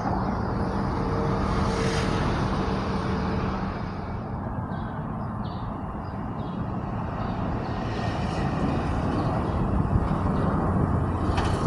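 Jet aircraft engine noise overhead, a steady rushing sound with a low steady hum in the first few seconds, dipping slightly midway and building again toward the end.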